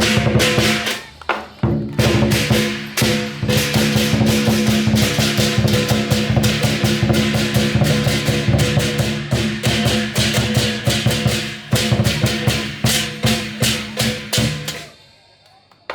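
Lion dance percussion ensemble of drum, cymbals and gong playing a fast, driving beat, with the gong's ringing tone held under the rapid strikes. It stops abruptly about a second before the end.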